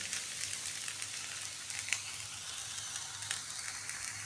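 A thin crepe sizzling in a lightly oiled non-stick frying pan: a steady, soft hiss with a couple of tiny pops, about two seconds in and again a little past three seconds.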